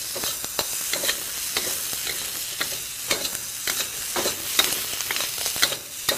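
Diced green peppers frying in hot ghee in a wok with a steady sizzle, stirred around the pan with frequent sharp clicks and scrapes. The peppers are being partly cooked to soften them.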